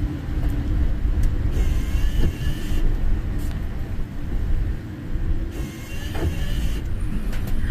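Car driving on a rain-soaked road, heard from inside the cabin: a steady low road and engine rumble, with a brief swishing sound twice, about four seconds apart.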